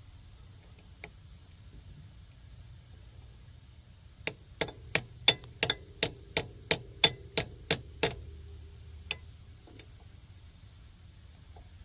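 A hammer striking metal in a rapid run of about a dozen ringing blows, roughly three a second, followed by a couple of light taps.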